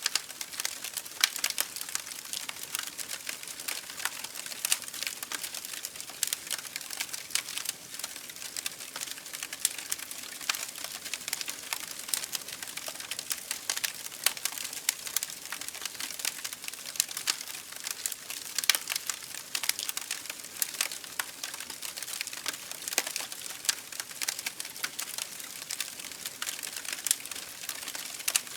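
Campfire burning: a dense run of irregular crackles and pops from the burning wood over a steady hiss.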